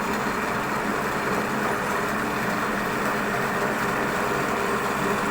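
CNC wood carving router running steadily: a constant hum with an even rushing noise above it.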